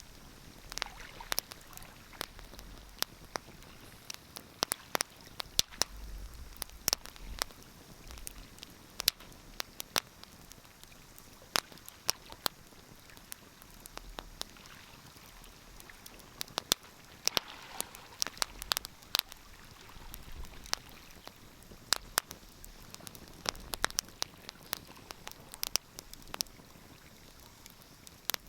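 Wood fire crackling in a fireplace: irregular sharp pops and snaps, sometimes several a second, over a faint steady hiss.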